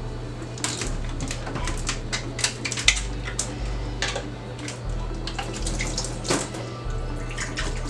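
Kitchen tap running into a sink, with scattered clinks and knocks of dishes, over background music with a steady bass line.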